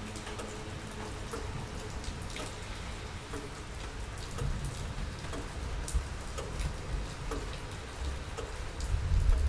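Steady rain, with scattered drops ticking sharply. A low rumble swells near the end.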